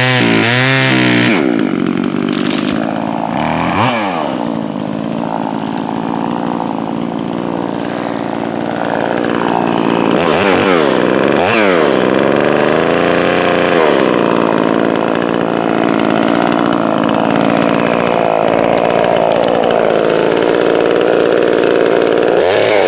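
Poulan Pro 4620 two-stroke chainsaw, freshly fitted with a new piston and running rich for break-in, revving at full throttle and then cutting into dead apple wood. Its engine speed dips and picks back up several times through the cut.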